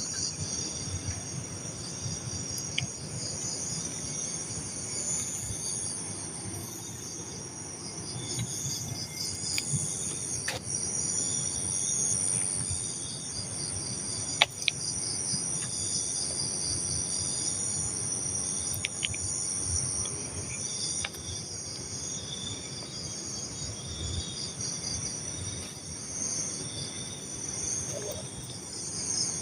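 Night chorus of crickets and other insects: a steady high-pitched trill with repeated pulsing chirps layered over it. A few sharp clicks stand out, about ten and fourteen seconds in.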